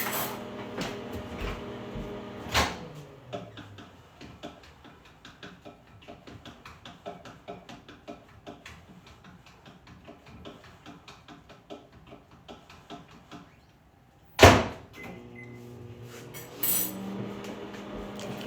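Many light irregular clicks and taps, then one loud sharp bang like a door or cupboard being shut, with a steady hum before and after.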